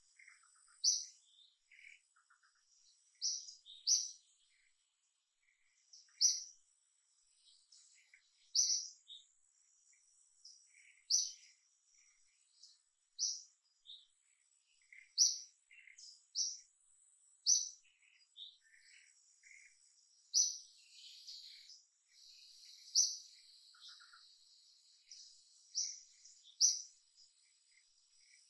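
A bird calling in short, high chirps, singly or in quick pairs, about every two seconds, over a faint steady high-pitched hum.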